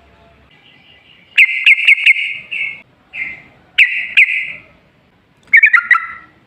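Yellow-vented bulbul (trucukan) singing: four quick, bubbly chattering phrases with sharp clicky notes, the first starting about a second and a half in and the last near the end.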